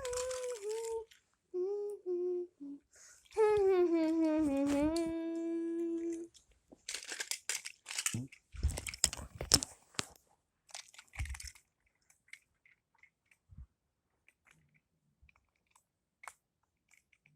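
A person humming a short tune in long held notes, followed by bursts of crinkling and clicking handling noise and a few faint clicks.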